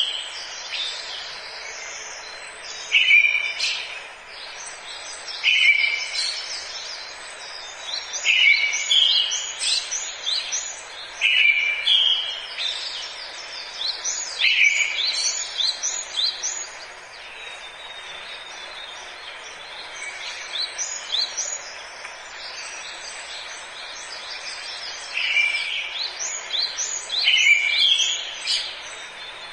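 Forest songbirds singing: a short phrase repeats every two to three seconds, each opening on a lower note and running up into quick high chirps, over a steady hiss. The singing thins out for several seconds past the middle, then picks up again.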